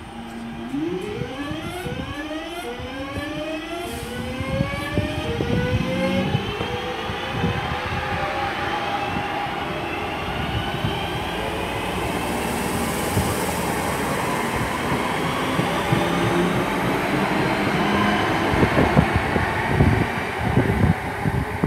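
Electric train accelerating, its traction motors giving a series of rising whines over the first several seconds, followed by a steady rushing run of the train that grows slowly louder.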